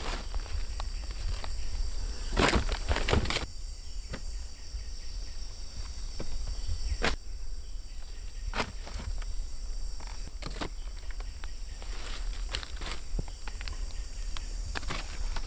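Footsteps on forest ground, each step an irregular crunch every second or two, over a steady high-pitched insect drone.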